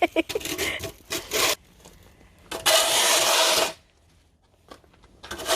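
Two loud rasping scrapes through deep, packed snow, each about a second long, after a few softer crackles.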